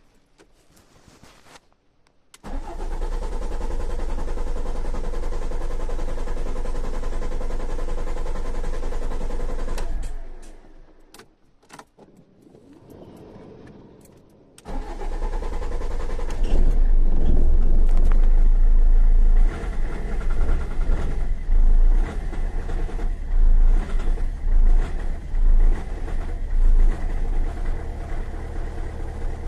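BMW E46 320d four-cylinder turbodiesel starting about two seconds in and idling steadily, dying away near ten seconds, then started again about fifteen seconds in. From about twenty seconds the idle runs unevenly, its level swelling and dipping: a rough idle.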